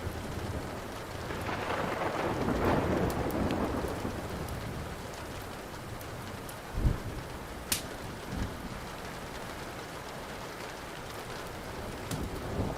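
Steady rain with a roll of thunder that swells and fades over the first few seconds, then low thumps of thunder a little later. Small crackles of a wood fire, with one sharp pop, sound through the rain.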